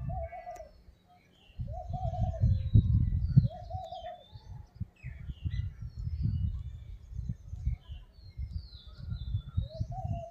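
Several birds calling: a low, arched call repeated four times, a second or two apart, among many short, high chirps and whistles from smaller birds, over a loud, irregular low rumble.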